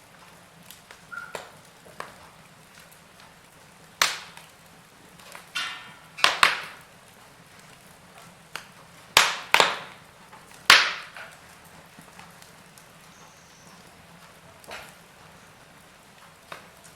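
Wood fire in a fireplace crackling, with sharp pops breaking out now and then, several loud ones close together in the middle.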